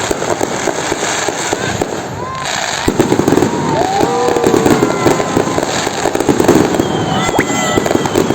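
Fireworks display: dense, rapid crackling and popping from many bursts, growing louder about three seconds in.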